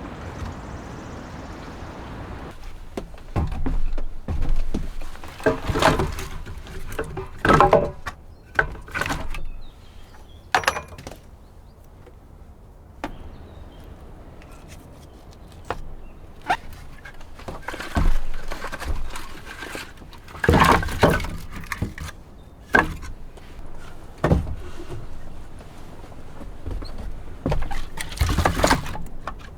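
Irregular thuds, knocks and rustling, as of things being handled and set down, after a steady rushing noise in the first couple of seconds.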